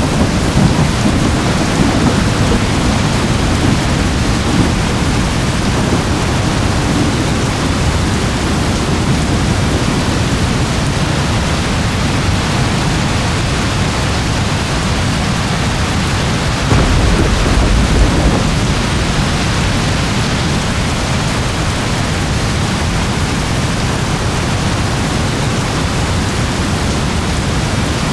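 Heavy rain falling steadily, with low rolling thunder rumbling underneath and swelling briefly about two-thirds of the way through.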